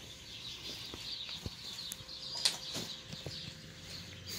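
Many birds chirping steadily in the background, with a few light knocks and clicks, the sharpest about halfway through.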